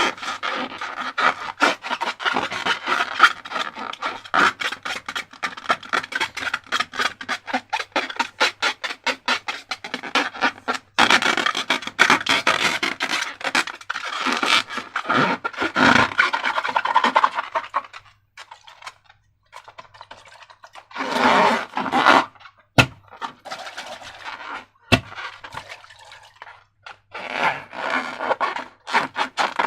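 Sticky slime being squeezed and stirred by hand, with rapid crackling clicks for the first ten seconds or so, then wetter scraping and squishing that stops and starts in short bouts.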